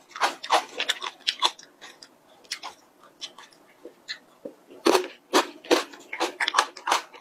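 Close-up eating sounds: wet mouth clicks and crunchy chewing of whipped cream and chocolate cereal rings. The clicks come thick at first, thin out, then settle into a steady chewing rhythm of about three crunches a second in the last couple of seconds.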